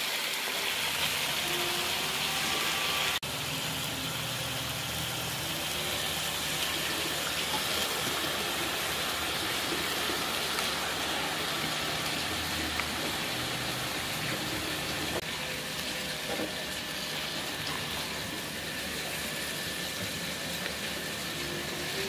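Steady sizzling hiss of water spinach frying in a hot wok, with a slight drop in level about three seconds in.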